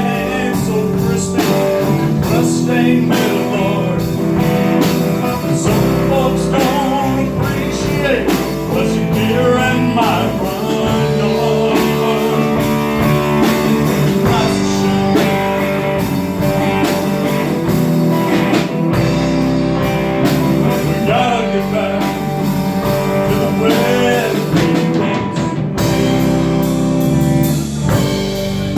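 Live blues-rock band playing: electric guitar, bass and drum kit, with a singer's voice over them.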